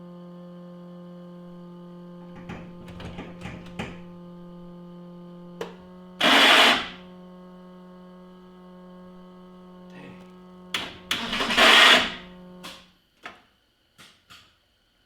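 Race car starter motor engaged twice in short loud bursts, a brief one about six seconds in and a longer one near twelve seconds, without the engine catching: the starter misfiring. A steady hum underneath cuts off shortly after the second attempt, followed by a few clicks.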